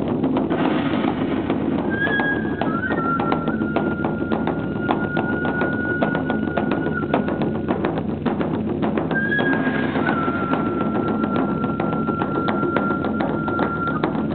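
Japanese festival music: a bamboo flute holds a long high note, sliding down into it twice, over busy clacking percussion and crowd din.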